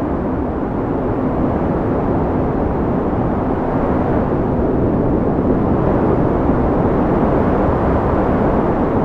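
Wind blowing steadily with a deep rushing sound, swelling slightly in the middle.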